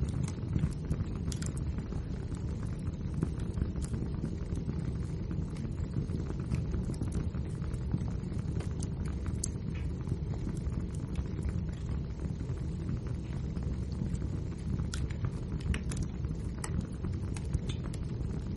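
Wood fire burning with a steady low rumble of flames and frequent small crackles and pops.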